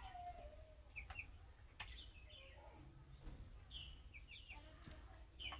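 Budgerigars chirping and warbling: short chirps and twittering glides with a few sharp clicks, and a low whistle falling in pitch at the start.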